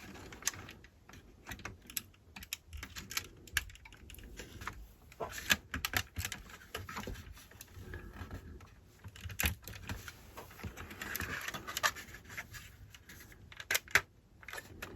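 Irregular small clicks and taps of hard plastic model-kit parts being handled and pressed down into their slots.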